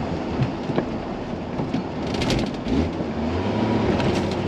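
Truck engine labouring at low revs while climbing in snow, with a rumbling noise from the truck and a few sharp rattling clicks partway through. It is running out of RPM and losing the climb.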